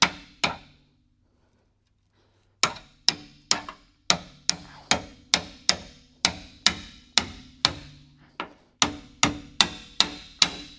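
Hammer blows driving a seam-splitting chisel between two spot-welded sheet-steel body panels to separate them. The blows are sharp and come steadily at about two a second, each ringing briefly, after a quiet gap of about two seconds near the start.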